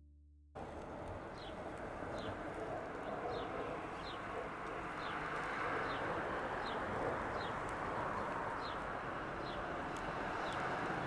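A bird chirping repeatedly, a short high call about once a second, over a steady hiss that starts suddenly.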